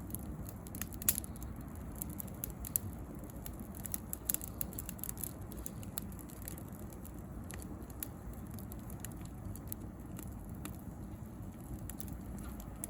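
Bonfire of dry branches crackling, with irregular small pops and snaps over a low steady rumble of the flames; one sharper snap about a second in.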